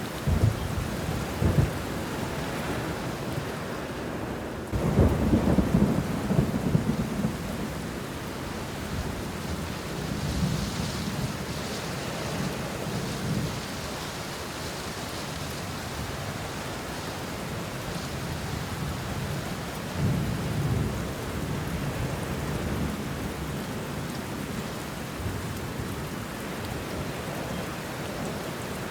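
Steady rain falling on banana leaves and bushes, with thunder rumbling several times, the loudest roll about five seconds in and others around ten and twenty seconds.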